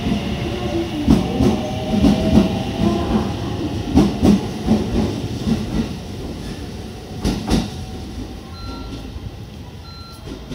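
JR Central 313 series electric train pulling out of the station: its inverter motor whine rises in the first second, wheels clatter and knock over the rail joints, and the sound fades as the last car passes and the train draws away. Two faint short beeps sound near the end.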